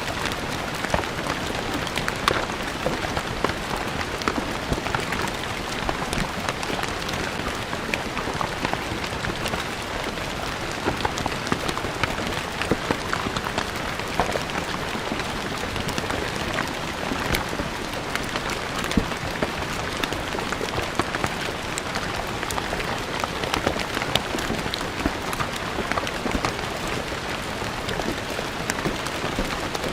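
Steady rain falling on stone paving, a dense even patter of many small drop impacts with sharper individual splashes scattered throughout.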